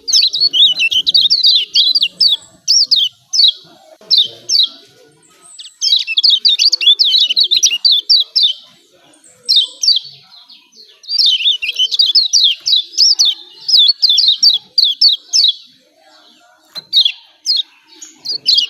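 Kecial kuning (yellow white-eye, pleci) giving its fast 'ciak ciak' chattering call: rapid runs of sharp, high chirps in bouts of a few seconds separated by short pauses. This is a recording made to provoke caged white-eyes that are reluctant to sing.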